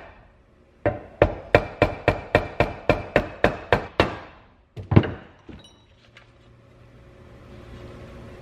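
Hammer striking a 2x4 block laid flat on a new front crank seal, driving the seal into a small-block Chevy timing chain cover. It is a quick run of about eleven even blows, roughly three a second, then two harder blows and a light tap. A faint low steady hum follows.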